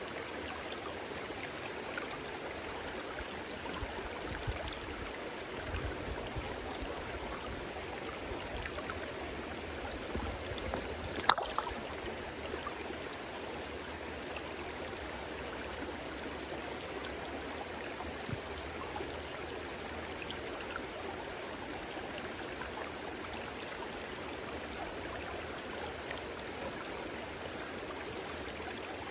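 Stream water flowing and babbling steadily, with one brief sharp sound standing out about eleven seconds in.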